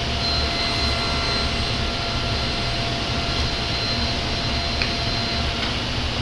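Table saw running while crosscutting a board to length, a steady machine noise with a whine on top that stops about five and a half seconds in. There is a faint click near the five-second mark.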